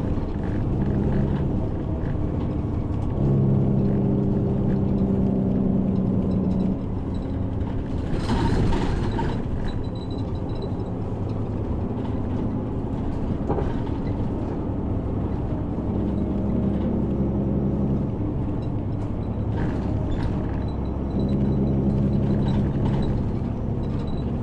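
Route bus's diesel engine running under way, heard from inside the passenger cabin, its note stepping up and dropping away several times as it gathers speed and changes gear. A brief hiss about eight seconds in.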